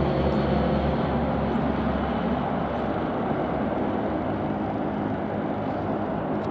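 Aircraft engine noise, a steady rumble with a broad rushing haze, slowly fading as the plane moves away; its deepest tones die out about two and a half seconds in.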